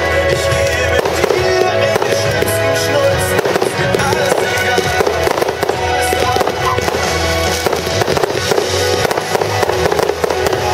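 Music playing with aerial fireworks bursting over it: many sharp bangs and crackles.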